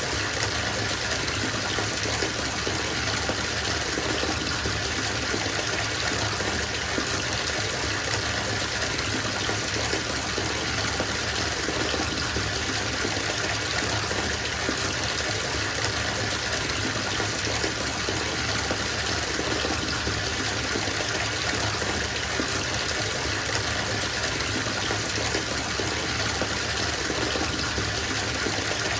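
Water running steadily from a bathtub tap into a filling tub, a constant even splashing rush.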